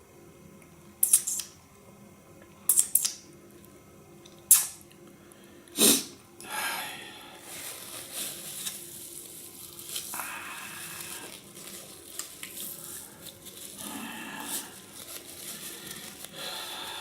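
Close-miked eating of beef tongue: four sharp clicks or taps of utensils in the first six seconds, then steady, wet chewing.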